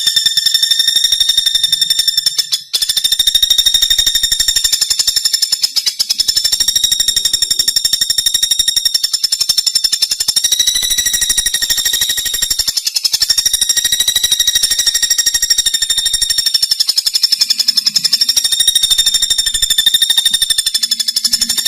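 Pelatuk bawang woodpecker calling in one long, very fast, buzzy rattling trill, high-pitched and even, with a brief break about three seconds in.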